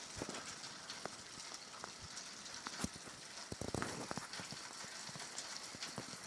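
Heavy rain falling steadily, a soft hiss with scattered drips and taps of drops striking surfaces close by.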